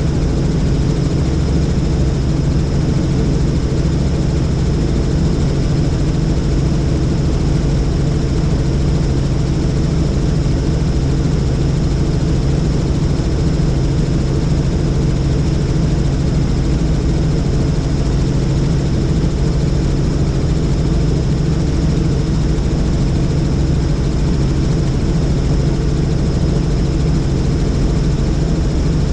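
Helicopter in flight: a steady drone of engine and rotor, with a constant high whine over it.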